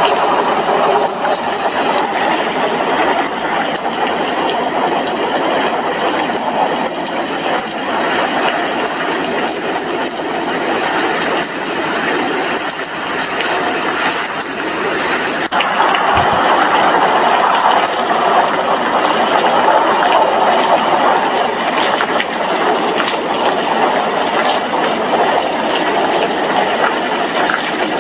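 Steady rain falling, heard as a dense, even hiss.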